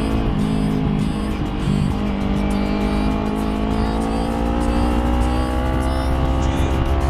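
Motorcycle engine running under load, its pitch rising slowly and steadily as it accelerates.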